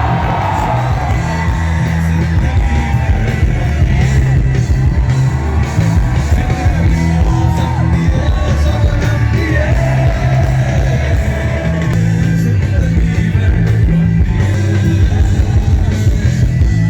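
Hindi film song: a singer's drawn-out, ornamented vocal lines over a band with a heavy, steady beat.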